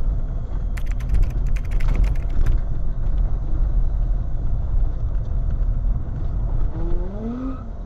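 Car on the road: a steady low rumble of engine and tyres, with a quick run of sharp clicks and rattles about a second in and an engine note rising near the end.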